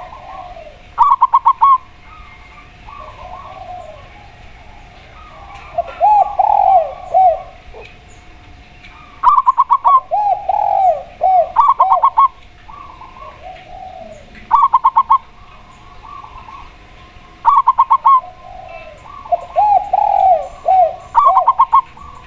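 A spotted dove and a zebra dove cooing against each other. Quick runs of short, clipped, higher coos alternate with groups of lower, arched, drawn-out coos, repeating every few seconds. Small birds chirp faintly behind.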